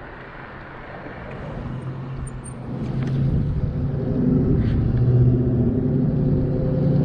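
A motor vehicle's engine comes closer, a steady low hum that grows steadily louder from about two seconds in. Before that there is only faint wind and road noise as the electric scooter coasts to a stop.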